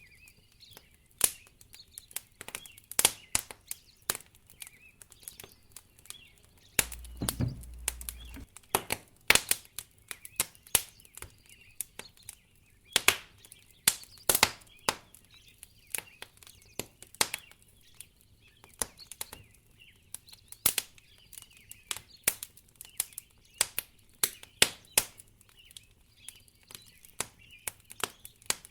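Wood fire crackling in a fireplace: irregular sharp pops and snaps, several a second, with a brief low thud about seven seconds in.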